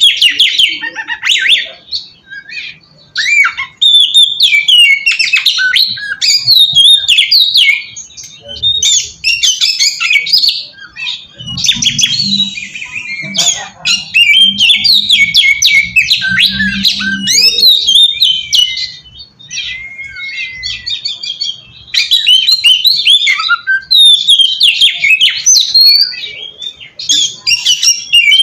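Oriental magpie-robin (kacer) singing loudly: a fast, varied run of harsh scratchy notes and whistles, broken by short pauses. This is the challenging song that kacer keepers play as a lure to draw other magpie-robins into answering.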